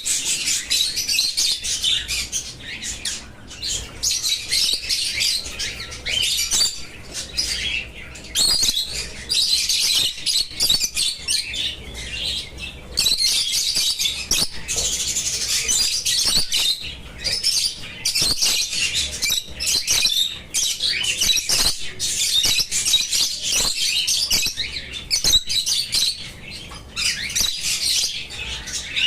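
A group of small birds chirping and chattering almost without pause, high-pitched and busy, with a few sharp clicks among the calls.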